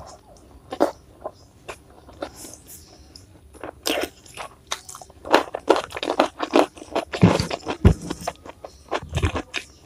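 Close-miked eating: a person biting and chewing crunchy food, the crunches sparse at first, then coming thick and loud from about four seconds in.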